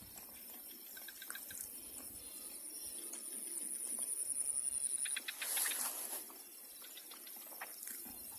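High, steady insect trill pulsing rapidly in the background, with a few faint clicks and a brief splashy rush of noise about five and a half seconds in.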